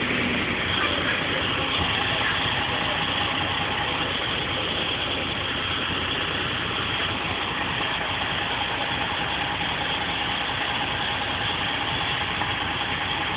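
Fire truck's diesel engine idling steadily, with a faint steady tone running through it.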